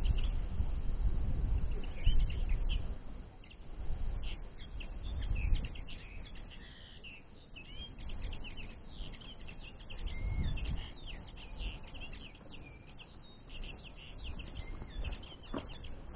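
Songbird twittering, common linnets' quick chirps and song phrases, coming thick and fast for most of the stretch. Low rumbling noise rises at the start and again about ten seconds in.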